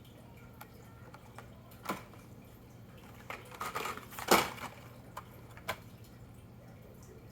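Light clicks and clatter of Hot Wheels diecast toy cars being handled and set down, with a cluster of small knocks and the loudest click about four seconds in, over a faint steady hum.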